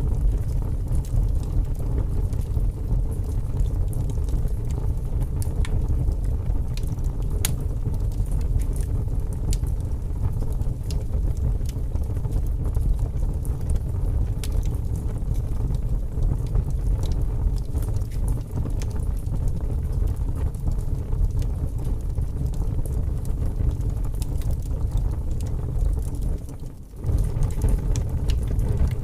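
Wood fire burning in a fireplace: a steady low roar of the flames with scattered small crackles and pops. The sound dips briefly near the end.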